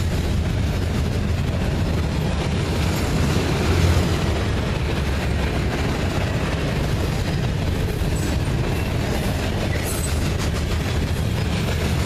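Freight train of steel gondola cars rolling past close by: a steady rumble of wheels running on the rails, a little louder about four seconds in.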